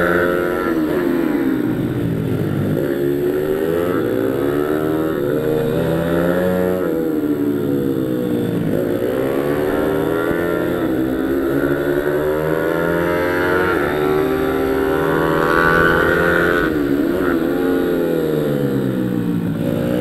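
Pit bike engine revving hard and easing off over and over, its pitch climbing and then dropping every few seconds, as in riding laps of a circuit.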